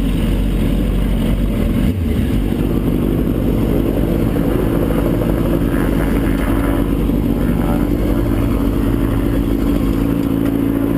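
Vehicle engine running steadily at low speed while parking. Its low note shifts near the end.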